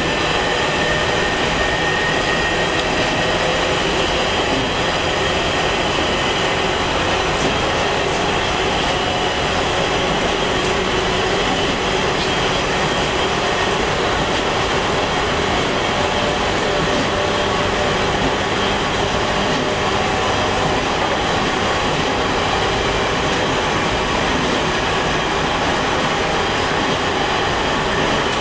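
A JR East Series E721-500 electric train with Mitsubishi IGBT-VVVF drive, heard from inside as it runs between stations. There is a steady, even rolling noise of wheels on rail, with a few faint steady high tones over it.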